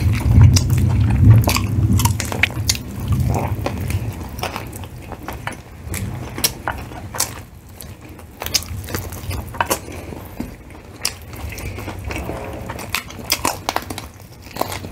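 Close-up eating sounds: biting into and chewing fried chicken, with many short sharp clicks and crackles. A low rumble fades out over the first four seconds.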